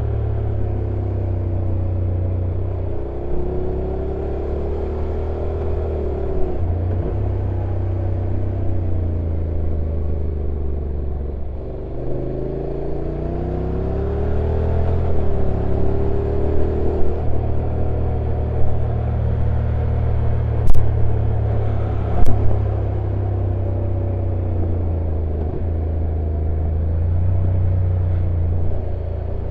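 Honda NC750X parallel-twin motorcycle engine running on a downhill ride, its pitch rising and falling with the throttle and stepping with gear changes. Two sharp clicks come about a second and a half apart, roughly two-thirds of the way through.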